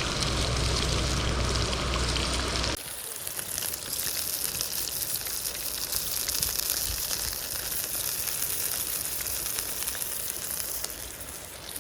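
Food frying in a frying-pan dish over a wood fire, sizzling steadily in a lot of fat. A low rumble under it for the first three seconds or so stops abruptly, leaving the fine sizzle.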